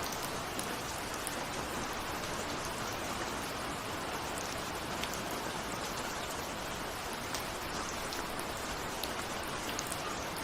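Steady rainfall, an even hiss with scattered light drop ticks of raindrops striking a window.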